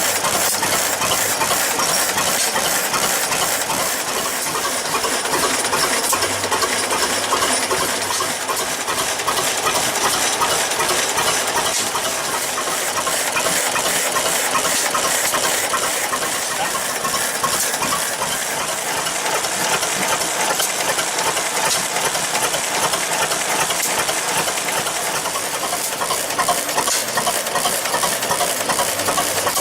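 Antique engine running steadily with a rapid metallic clatter over a hiss.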